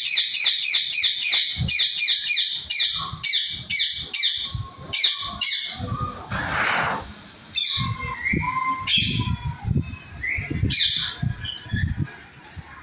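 Small cage birds chirping together: fast runs of high chirps, about five a second, for the first half, then sparser single calls, with a brief rushing noise a little past halfway.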